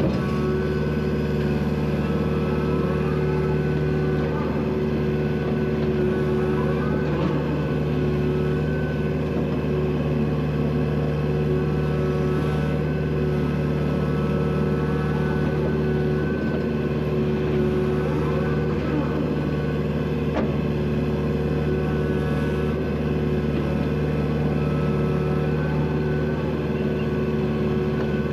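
Vehicle engine running at a steady speed, its pitch holding constant throughout.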